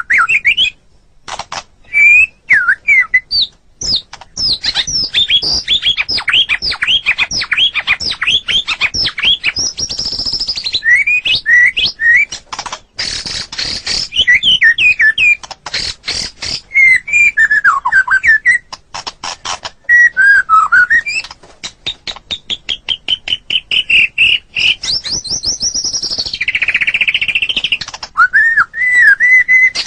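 White-rumped shama (murai batu) singing a long, varied song. Clear gliding whistles alternate with fast runs of repeated clicking notes and harsh, buzzy chatters.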